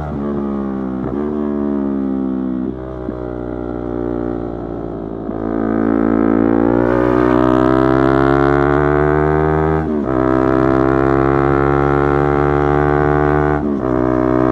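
Yamaha YZF-R3 motorcycle's parallel-twin engine under way. It slows with several quick gear changes, then accelerates hard, rising in pitch, with upshifts about ten seconds in and near the end.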